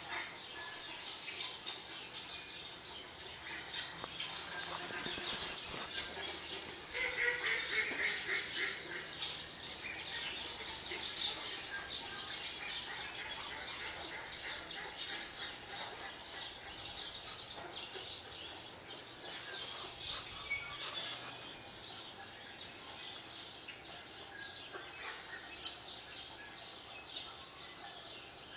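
Many small birds chirping and calling, coming from a bird video on a TV, with a louder run of quick repeated chirps about seven seconds in.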